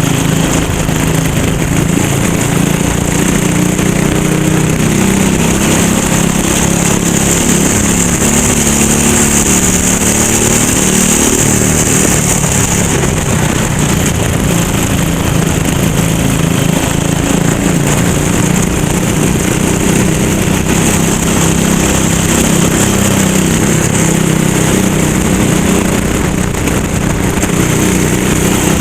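Racing kart engine running hard at full throttle. Its pitch dips and climbs again as the kart slows and speeds up, with a steady hiss over it.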